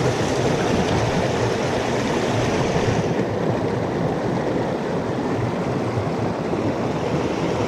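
A mountain stream rushing steadily. About three seconds in, its highest hiss drops away somewhat.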